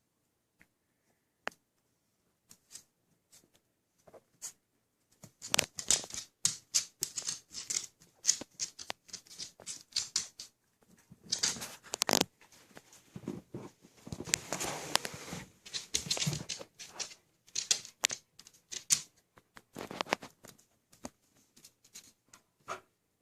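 Puppies moving about, with quick irregular scratching, clicking and rustling that starts sparse, then comes in dense flurries through the middle.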